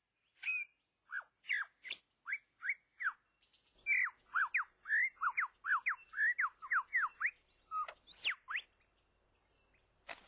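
Male superb lyrebird singing his display song: loud, clear whistled notes, most sliding down in pitch, a few spaced notes, then a fast run of them, ending with one high sweeping note.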